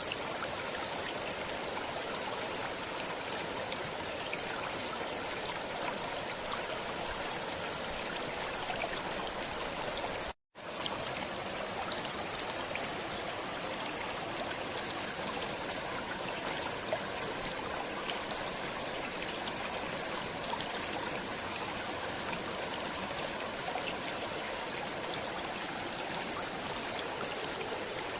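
A stream running steadily, an even rush of water with small scattered ticks. The sound drops out to silence for a split second about ten seconds in.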